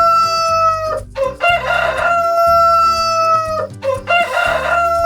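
Rooster crowing: long cock-a-doodle-doo calls repeated one after another, each with a rough start and a long held note that drops off at the end, over background music.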